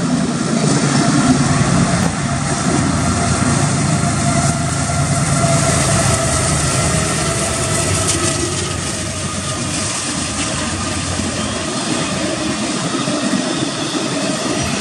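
A Union Pacific intermodal freight train passing close by at speed. The low rumble of its diesel locomotives, led by a GE ES44AC, is strongest in the first few seconds. It gives way to the steady rushing and rolling of double-stack container cars on the rails.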